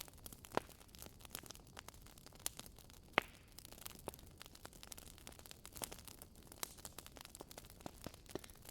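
Wood fire burning in a fireplace, crackling: irregular sharp pops and snaps from the burning logs over a faint hiss, the loudest snap about three seconds in.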